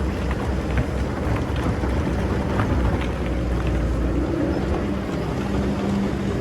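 Excavator's diesel engine running steadily with a low hum, with a steadier, stronger tone coming in near the end and scattered small clicks and knocks throughout.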